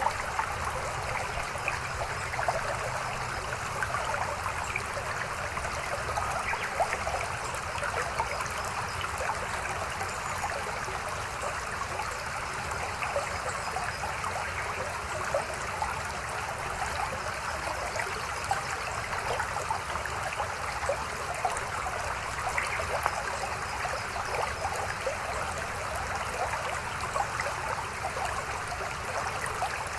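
Mountain stream flowing over rocks: a steady babbling and trickling of water.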